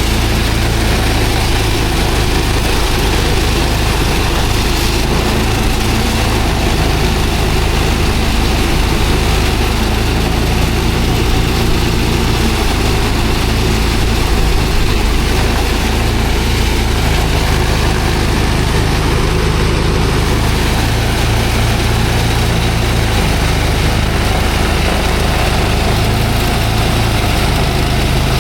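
An engine-driven rice thresher running steadily, giving a constant, even engine drone.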